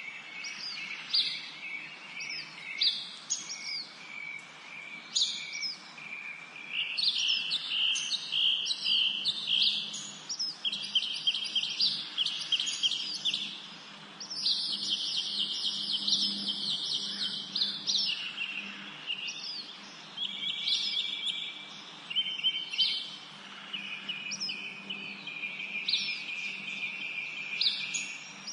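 Several songbirds singing and chirping at once: rapid trills and repeated short falling notes overlap with almost no pause, a forest dawn-chorus kind of birdsong.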